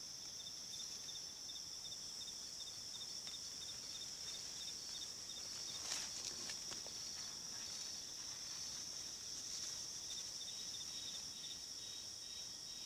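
Insects droning: a steady high-pitched buzz with a rapidly pulsing, chirping trill just below it, and a brief click or rustle about six seconds in.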